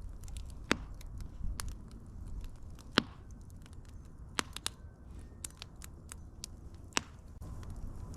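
Wood fire crackling, with irregular sharp pops and snaps over a low rumble of burning. The loudest pops come about a second in, at three seconds and near the end.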